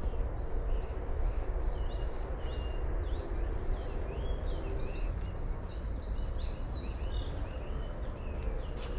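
A songbird singing a quick run of short, high chirping notes, some sweeping downward, over a steady low rumble.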